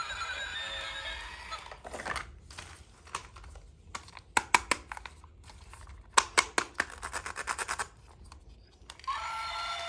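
Hands handling small plastic toy pieces, making sharp clicks and snaps in short clusters, with a quick run of ticks about three-quarters of the way through. Background music plays at the start and comes back near the end.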